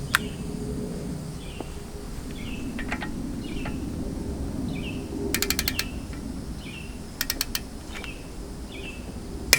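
Torque wrench ratcheting in two short runs of quick clicks, with single clicks at the start and end, as the wheel's lug nuts are tightened down to 105 ft-lb. A high chirp repeats steadily in the background.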